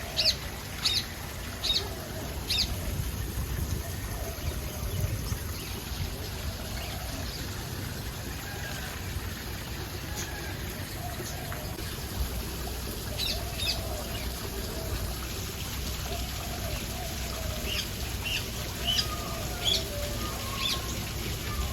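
Birds chirping in short, sharp, high notes, in a cluster at the start and again through the second half, with fainter wavering calls and a steady low rumble underneath.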